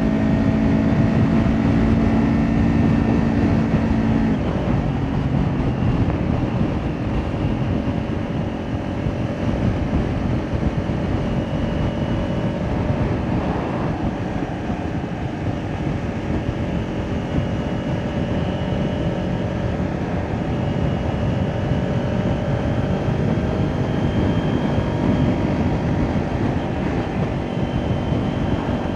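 Kawasaki Ninja 400's parallel-twin engine running through an Akrapovic exhaust while riding, heard with wind and road noise. About four seconds in, the steady engine pitch drops away, as when the throttle is rolled off, and a lower, rougher engine sound carries on.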